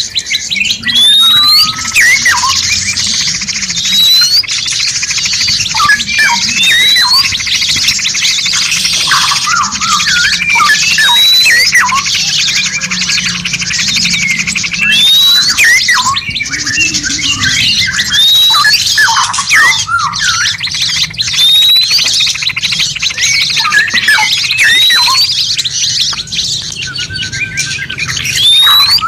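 Several songbirds singing at once: a dense, high, rapid trill runs throughout, a sharp rising whistle repeats about every two seconds, and short chirps and squawks are mixed in.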